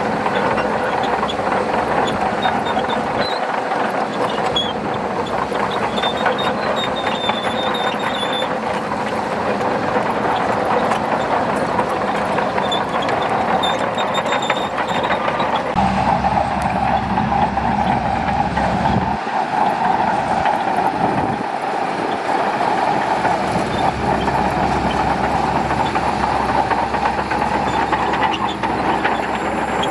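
Shantui DH17C2 crawler bulldozer working: the diesel engine runs steadily under load while the steel tracks clank and rattle, with a deeper rumble coming in about halfway.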